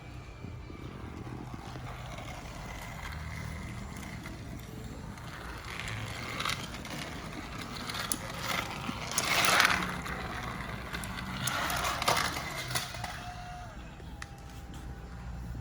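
Battery-powered TrackMaster Turbo Percy toy engine running on plastic track: a steady low motor hum with the rattle of its wheels on the track, swelling louder twice in the second half as it clatters over the layout.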